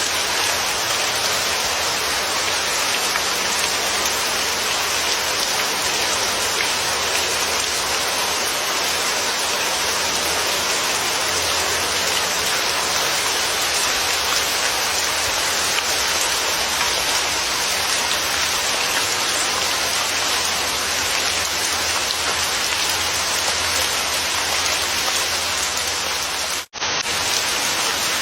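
Steady heavy rainfall: a dense, even hiss of falling rain. It cuts out for an instant near the end and then resumes.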